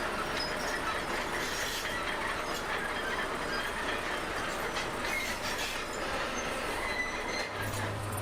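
Crawler bulldozer working, its steel tracks clanking and squealing over the engine noise. A steady low hum sets in near the end.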